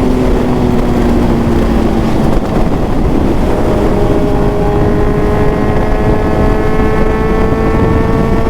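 Suzuki GSX-S750's inline-four through a full Ezaki/SC Project exhaust while riding: the engine note eases down for about the first two seconds, then, from a few seconds in, climbs slowly and steadily as the bike gathers speed, over a dense rush of wind noise.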